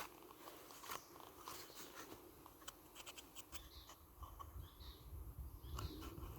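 Faint outdoor background: scattered light clicks and a few faint chirps, with a low rumble starting about two-thirds of the way through.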